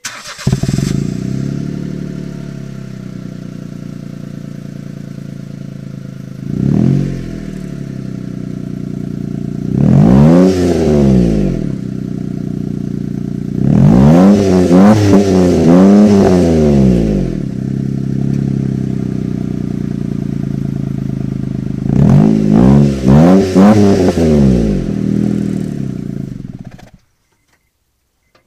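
Honda Zest Sports G's 660 cc three-cylinder engine running through an HKS Hi-Power aftermarket muffler: it starts up and idles, is blipped once, then revved up and down in several bursts of repeated revs, and is switched off near the end.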